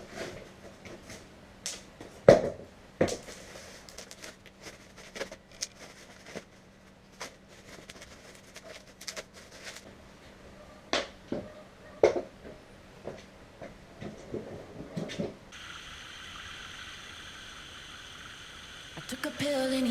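Irregular sharp knocks and clicks over a faint steady hum, the loudest about two seconds in and again near the middle. In the last few seconds a steady hiss comes in.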